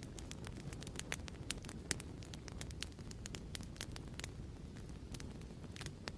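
Wood fire crackling in a fireplace: a steady low rumble with irregular sharp pops and snaps, several a second.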